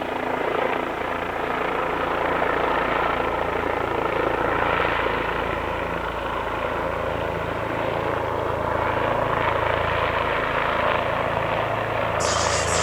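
Medical helicopter's rotor and turbine engine running steadily as it comes in to land. A higher hiss suddenly joins the sound near the end.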